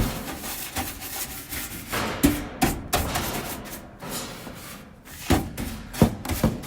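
Sweeping dust and debris off a dryer panel: irregular scraping, brushing strokes with a few sharp knocks among them.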